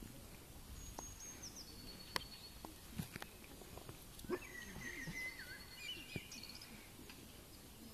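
Faint outdoor ambience with birds calling: short whistled phrases about a second in and again from about four to six seconds in, with a few soft scattered knocks.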